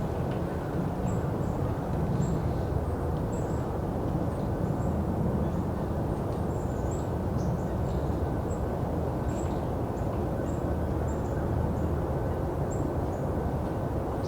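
Golden-crowned kinglets giving very high, thin call notes, short and repeated irregularly about once or twice a second, over a steady low rumble of background noise.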